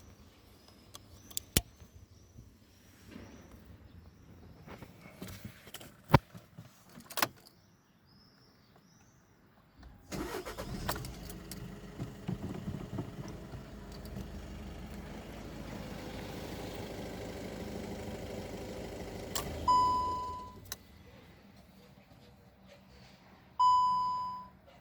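A few sharp knocks, then a VW Golf 7's engine starts about ten seconds in, runs steadily for about ten seconds, and stops. Two loud dashboard warning beeps come after it, one as it stops and one near the end.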